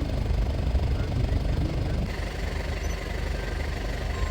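Safari jeep engine running at low revs, a steady low rumble.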